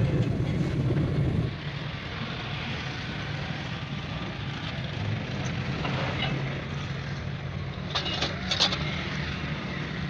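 A vehicle engine running, loud for the first second and a half, then a steadier, quieter running sound. A few short metallic clicks come near the end.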